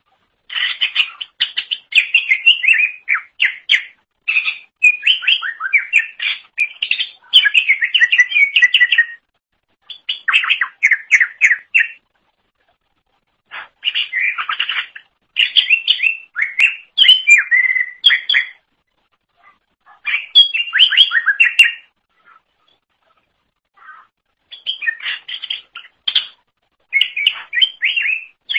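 Cucak ijo (leafbird) singing loudly in long phrases of rapid chirping and twittering notes, the phrases broken by short pauses.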